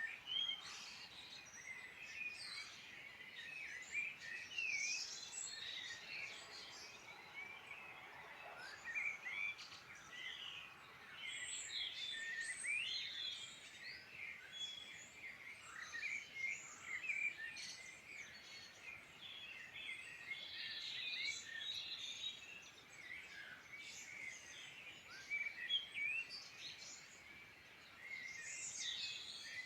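Several songbirds singing at once: a dense, overlapping chorus of chirps, trills and warbled phrases that never stops.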